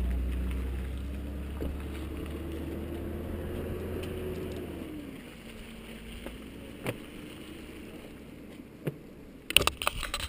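Motorcycle engine running, its pitch dropping about halfway through as the sound fades away. A cluster of sharp clicks and crackles comes near the end.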